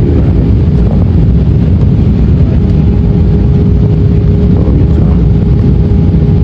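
Airliner cabin noise: a loud, steady rumble of engines and airflow with a constant droning tone running through it.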